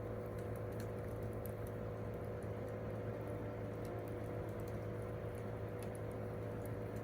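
Campfire crackling, with scattered sharp pops and snaps of burning wood over a constant low hum.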